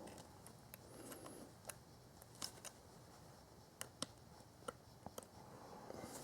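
Near silence broken by faint, scattered metallic clicks and ticks: hand tools working a spring-type radiator hose clamp.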